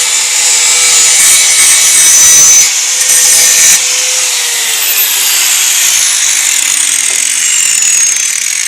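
Angle grinder working steel, loud with a steady high whine and a hiss. After about four seconds the work eases off and the motor's whine falls steadily in pitch as the disc spins down.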